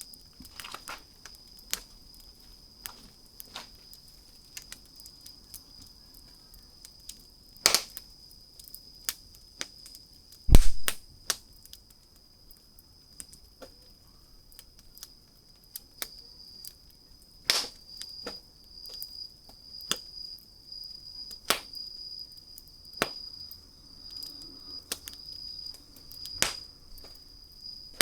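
Wood fire crackling: irregular sharp pops and snaps, the loudest, with a low thump, about ten seconds in. Behind it, a steady high insect trill that breaks into rapid pulses in the second half.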